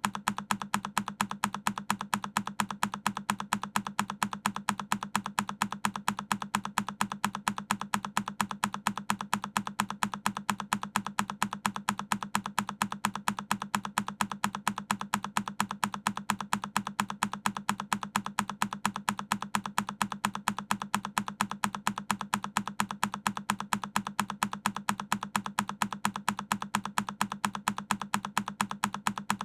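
A single key on a Keychron K10 mechanical keyboard clicking over and over in a fast, perfectly even rhythm, one short press sound after another.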